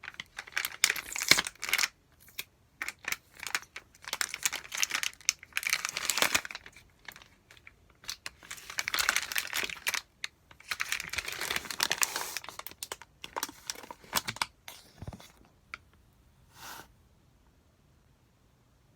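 Plastic delivery-food packaging being torn open and crinkled, in irregular bursts of crackling for about fifteen seconds, then almost quiet with one short faint rustle.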